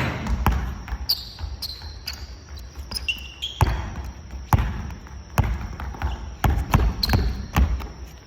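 Basketballs bouncing on a gym floor: irregular thuds, with a few short high squeaks in between.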